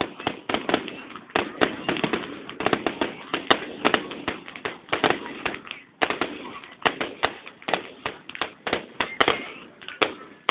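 Fireworks going off: a rapid, irregular run of sharp bangs and crackles, several a second, with a brief lull about six seconds in.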